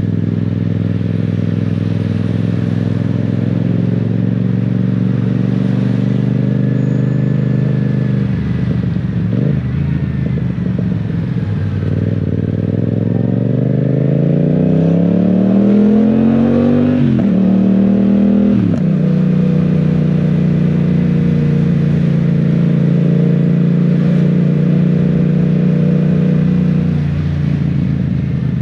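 Yamaha Tracer 700 / MT-07's parallel-twin engine under way, mostly running steadily. A little over halfway through, the revs climb in a long rising pitch, then drop sharply twice in quick succession, as with upshifts, before it settles back into steady running. A steady hiss of wind and rain sits underneath.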